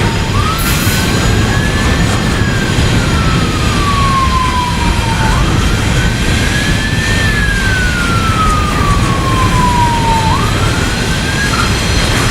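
Emergency vehicle siren on a slow wail, rising and then falling in pitch about every five seconds, three times. Underneath is the steady rumble of a passing train.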